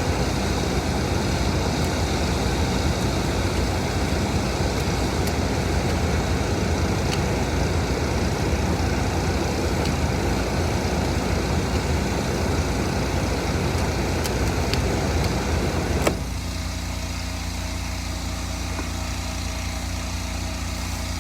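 A car engine idling steadily. About three quarters of the way in there is a single sharp knock, after which the sound is a little quieter and settles into an even hum.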